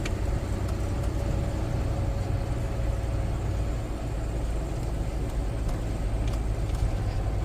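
Steady low engine and road rumble of a vehicle being driven, heard from inside the cabin.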